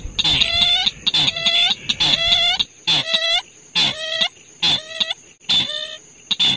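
A bird call played as a trapping lure: a short, nasal, harsh note with many overtones, dropping slightly in pitch and repeated about once every 0.8 seconds. A steady high insect-like whine runs underneath.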